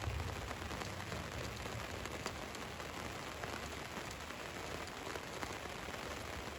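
Steady rain falling on a van, an even hiss with many small drop ticks. A low rumble sits under it at the start.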